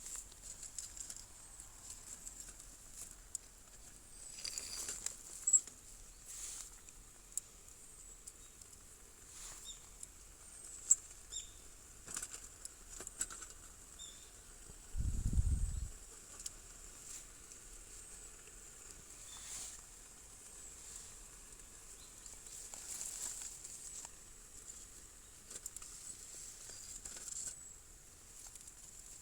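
Scattered light clicks and rustling, with a brief low rumble about halfway through.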